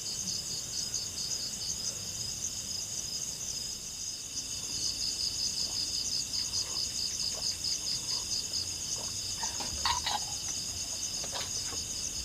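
Night insect chorus of crickets trilling steadily in several high, finely pulsed bands. A few short knocks or rustles come near the end.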